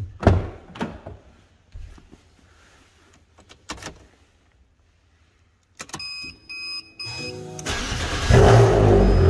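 Fiat Abarth 595's turbocharged 1.4 four-cylinder cranking and catching about eight seconds in, then running loudly; it starts because the Pandora Mini BT immobiliser has found its tag. Before that come a few sharp clicks and knocks and some short electronic beeps.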